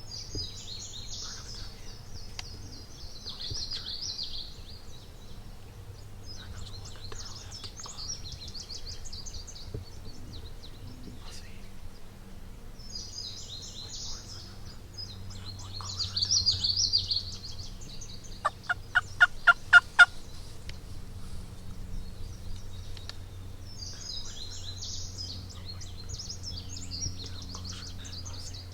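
A wild turkey's yelping: one run of about nine evenly spaced notes, about five a second, roughly two-thirds of the way in. A songbird sings short high phrases every few seconds.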